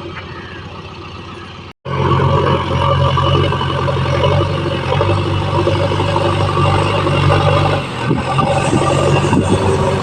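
JCB backhoe loader's diesel engine running: quieter for about the first two seconds, then loud and steady with a low, even hum.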